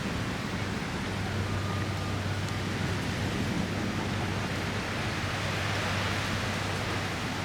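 Steady storm noise of heavy rain and strong wind, with high surf, an even rushing hiss with no distinct events.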